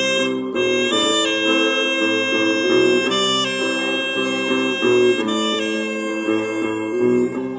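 Saxophone playing a slow melody of long held notes over sustained accompaniment chords, easing off slightly near the end.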